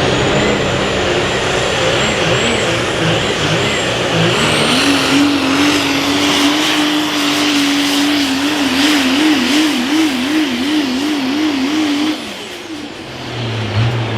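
Multi-turbocharged super stock diesel pulling truck at full throttle down the pull track, with a turbo whistle rising in pitch over the loud engine. The engine note holds steady, then wavers up and down, and the truck lets off sharply about twelve seconds in.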